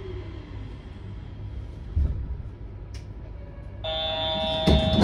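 Low steady rumble inside a Yurikamome automated train carriage, with a single knock about two seconds in. Near the end a steady electronic chime tone sets in and becomes the loudest sound.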